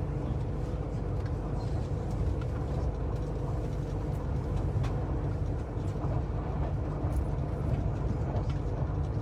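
Steady low rumble and running noise from inside a moving vehicle, with a faint constant hum.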